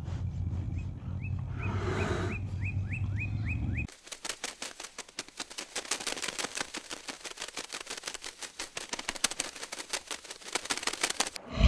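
A run of about eight short, rising chirps, roughly three a second, over a low rumble. About four seconds in it cuts to a dense, irregular patter of rapid fluttering clicks, like many wings flapping, which gives way to a sudden loud low rumble at the very end.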